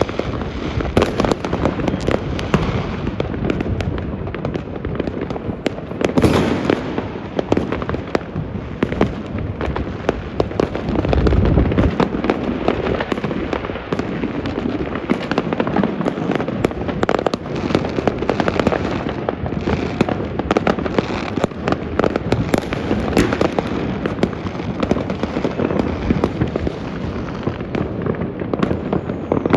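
Fireworks and firecrackers going off continuously across a city: a dense, unbroken crackle of many bangs near and far, with a louder rumbling cluster of explosions about a dozen seconds in.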